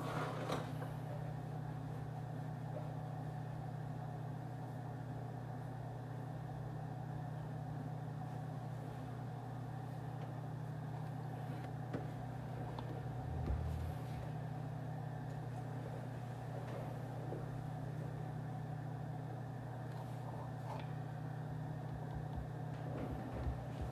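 Office ambience: a steady low hum with a few faint clicks and a soft low thump about halfway through.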